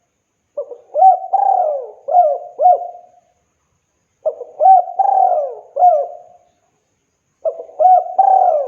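Spotted dove (tekukur) cooing in three phrases a few seconds apart. Each phrase is a run of low, looping coos lasting about two and a half seconds.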